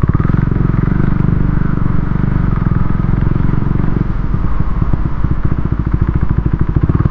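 KTM Duke 390's single-cylinder engine running at low speed over rough ground, its exhaust pulsing rapidly and evenly, with the throttle eased off about four seconds in.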